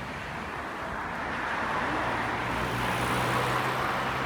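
A motor vehicle passing by: a rushing noise with a steady low engine hum swells to a peak about three seconds in, then starts to fade.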